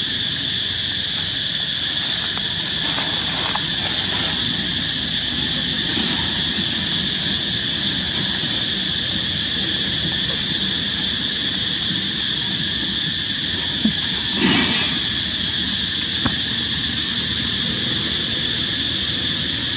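Steady high-pitched insect buzzing over a low rumble, with a brief squeal about fourteen seconds in.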